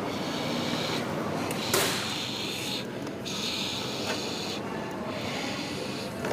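Panasonic exhaust fan running: a steady motor hum under a hiss of moving air, with the higher hiss swelling and dropping away in patches, and a sharp click a little under two seconds in.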